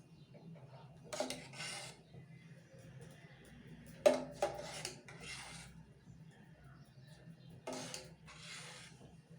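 Spoon scraping a bowl and serving cups while filling them with dessert filling: three pairs of short scrapes a few seconds apart, with a sharp knock about four seconds in.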